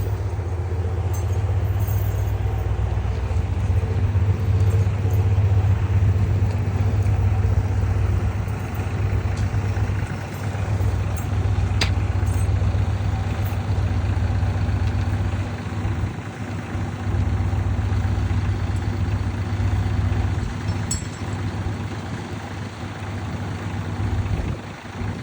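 A large engine running steadily at idle, a low even hum that fades near the end.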